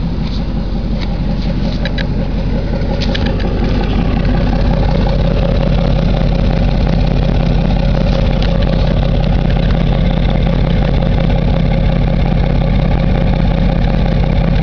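Rebuilt engine of a 1998 Chevrolet Silverado K1500 pickup idling steadily, with a few light clicks in the first few seconds; the owner says it sounds nice after the rebuild.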